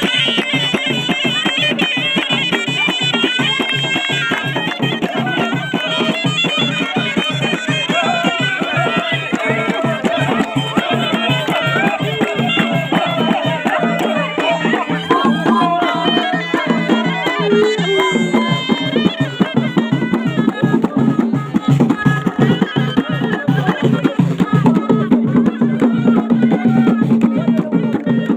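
Traditional ghaita, the double-reed shawm, playing a wavering folk melody over a steady drone and a regular drum beat.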